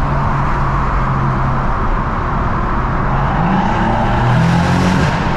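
BMW M140i's turbocharged straight-six running at a steady drone, then revving up under acceleration from about three seconds in. The engine note rises in pitch, and a rushing hiss swells with it near the end.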